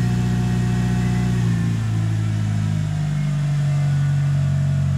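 Mitsubishi Lancer Evolution VI's turbocharged 4G63 inline-four idling just after a start, freshly refilled with new oil. The idle is steady, stepping down a little about two seconds in.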